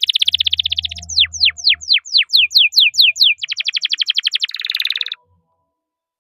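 Domestic canary singing: a fast trill, then a run of about ten sharp downward-sliding whistles, then another fast trill and a short buzzy note, stopping about five seconds in.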